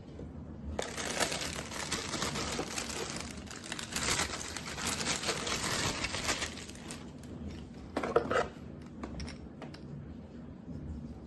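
Crinkling and rustling of handled packaging for about six seconds, with many small clicks, then a short louder rustle about eight seconds in.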